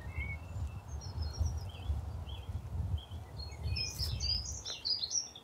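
Small garden birds chirping and singing, short high notes that grow busier toward the end, over a low rumble.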